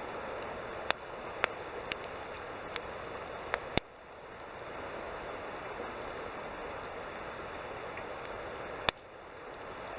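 Wood campfire burning with a steady hiss, broken by scattered sharp crackles and pops. Two of the pops are louder than the rest, about four seconds in and near the end.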